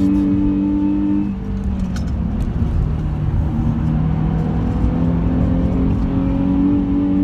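Nissan 350Z's 3.5-litre V6 heard from inside the cabin over road and tyre rumble. The engine holds a steady note, drops in pitch a little over a second in, then climbs steadily again under acceleration.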